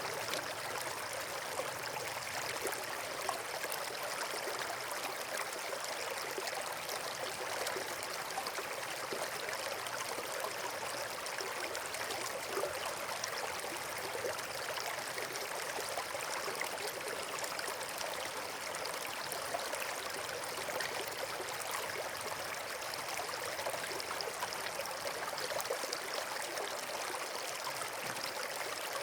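Running water rushing steadily, like a stream or small waterfall, an even hiss with no breaks.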